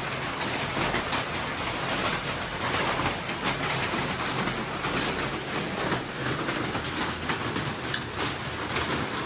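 Steady rain falling: a dense, even hiss with many small drop ticks through it.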